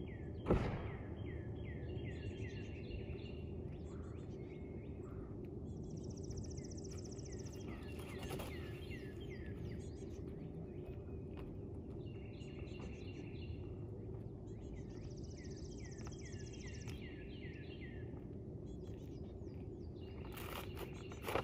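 Songbirds singing over a steady low outdoor rumble: a high, rapid trill that comes back about every nine seconds, between runs of short downward-slurred chirps. One sharp knock about half a second in, the loudest sound, and another near the end.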